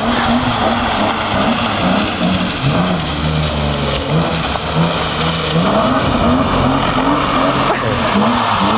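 BMW E36 M3's inline-six engine revving up and down over and over as the car is drifted on a wet road, over a steady hiss from the wet tyres.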